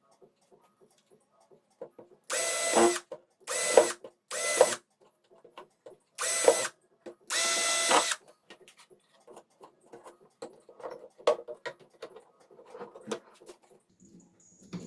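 A small handheld power tool motor, run in five short bursts of about half a second to a second each with a steady whine, during work on a plastic headlight housing. Light clicks and taps of handling follow.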